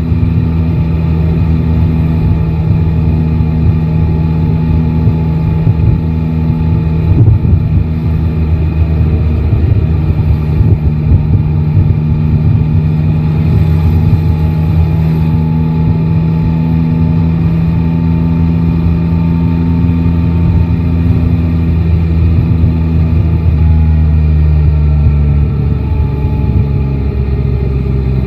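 Yamaha Tracer 9 GT motorcycle's three-cylinder engine running at a steady pace, its note changing pitch near the end.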